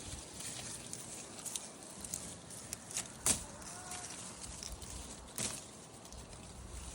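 A few sharp clicks or snaps over steady low background noise, the loudest about three seconds in and another about five and a half seconds in.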